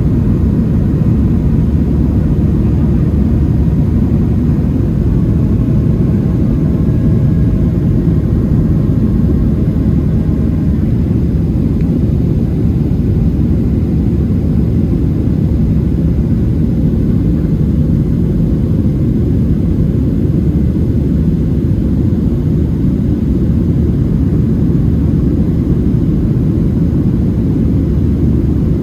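Steady low drone inside the passenger cabin of a Boeing 737-700, from its CFM56 jet engines and the air around the fuselage. Faint steady tones sit over it for the first ten seconds or so, then fade.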